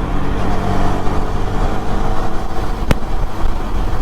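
Motorcycle cruising at highway speed: a steady engine note under a loud low rumble, with one sharp click about three seconds in.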